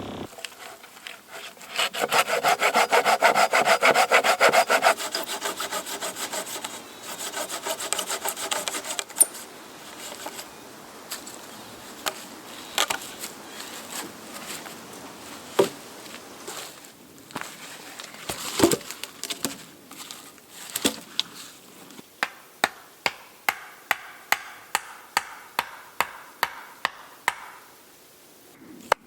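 Wood being worked by hand: a burst of rapid sawing strokes through wood, then scattered knocks and scraping. Near the end comes a steady run of sharp strokes, a little under two a second.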